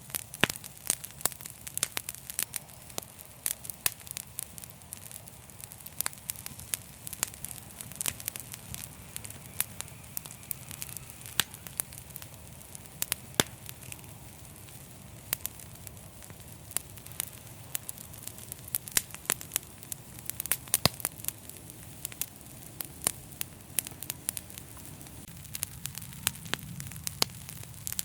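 Wood fire burning in a fireplace: irregular sharp crackles and pops, several a second, over a low rumble and soft hiss.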